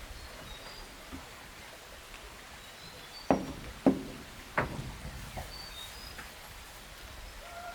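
Three sharp knocks a little over half a second apart, about three seconds in, with faint short bird chirps in the background.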